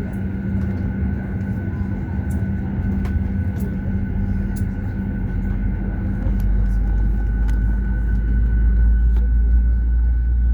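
Cabin noise of a Boeing 737-800 with its CFM56-7B engines running: a steady high whine over a low hum and rumble. The deep rumble grows louder about six seconds in, with faint scattered rattles throughout.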